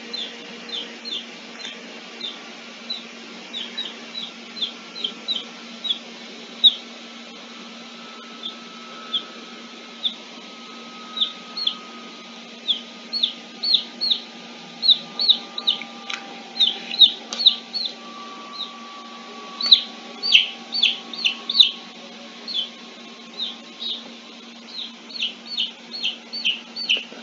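Birds chirping: short high peeps, irregular and often in quick runs, growing louder in the second half, over a steady low hum.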